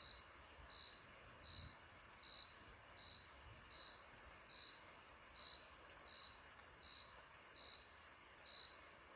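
A cricket chirping steadily, one short high chirp a little more than once a second, over faint background hiss.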